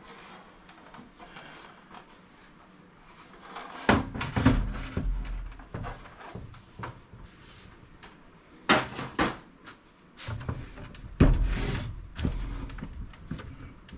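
Clunks, knocks and rattles of a desktop PC case being handled and pulled at, its plastic trim and steel side panel knocking together. They come in a few loud bursts, about 4, 9 and 11 seconds in, with quieter handling noise between.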